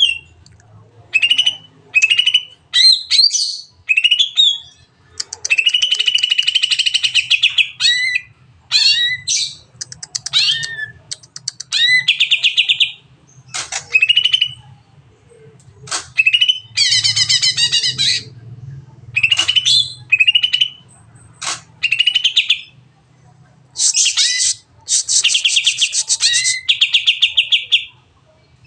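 A green leafbird (cucak ijo) sings a long, varied 'nembak' song of sweeping whistles, quick chirps and rapid buzzy trills, phrase after phrase with short pauses between.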